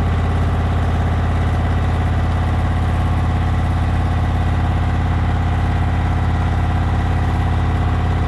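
Servis Gem M310 washing machine running with its bedding load out of balance: a steady, loud motor hum with an even pulsing from the off-balance drum. The load is unbalanced; on Servis machines this always sounds really loud.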